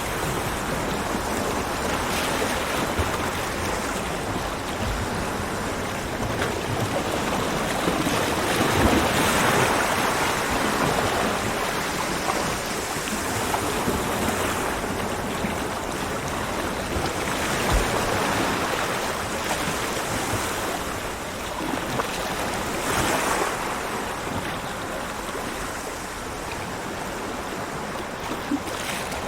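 Ocean waves breaking on a beach: steady surf with waves swelling and washing in every few seconds, the strongest about nine seconds in.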